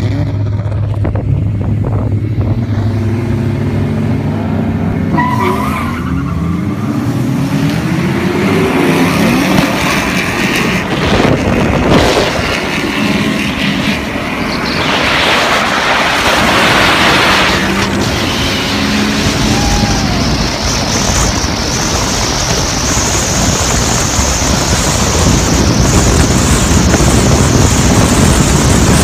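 Racing cars accelerating hard, engines revving up and down in the first few seconds, then giving way to a steady rush of wind and road noise, heard through a moving car's open sunroof.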